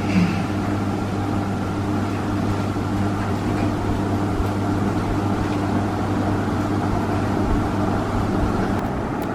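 Panasonic Bayu F-M14D9 five-blade ceiling fan running with a steady, fine hum, which the owner puts down to an aged capacitor that no longer supports the fan's speed.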